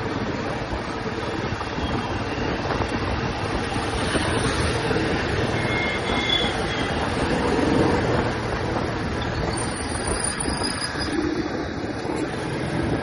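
Royal Enfield Classic 350's single-cylinder engine and exhaust running steadily while riding, mixed with wind and road noise.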